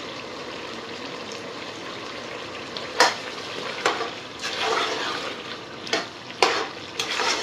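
Potatoes and green chillies sizzling steadily as they fry in oil and masala in a pot. From about three seconds in, a spoon stirring them scrapes and knocks sharply against the pot about four times.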